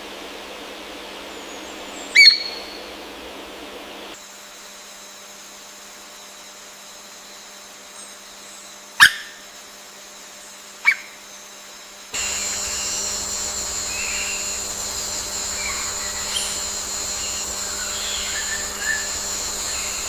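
Wild birds calling against forest ambience: a loud, short call about two seconds in, then two sharp downward calls a couple of seconds apart. From about two-thirds of the way through, the background becomes a steady high-pitched drone with scattered short chirps.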